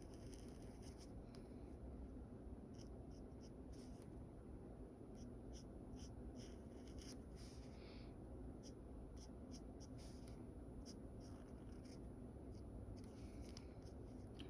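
Faint, short, irregular scratching strokes of a drawing tool on paper as a portrait is sketched, over a steady low background hiss.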